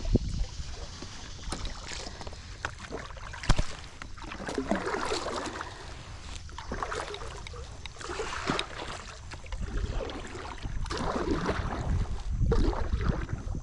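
Kayak paddle strokes dipping and splashing in the water, about one every second and a half in the second half, over a low rumble of wind on the microphone, with one sharp knock a few seconds in.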